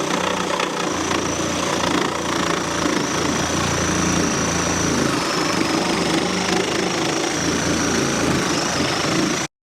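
Reciprocating saw (Sawzall) running steadily while cutting out old framing lumber, with a constant high whine over the buzz of the blade; it stops abruptly near the end.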